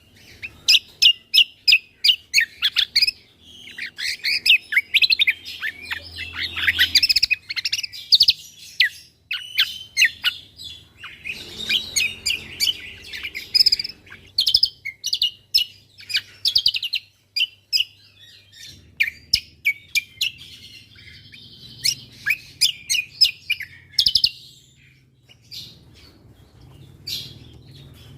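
Cucak kombo (kecial kombo, Javan grey-throated white-eye) singing a fast, high chirping song full of sharp, clipped 'tembakan' notes, in runs broken by short pauses.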